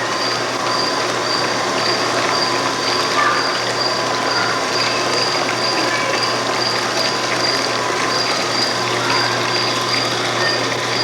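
Dairy milking equipment running: a steady hiss and hum of milk and water rushing through the pump and lines, with a faint high-pitched pulse repeating about every two-thirds of a second.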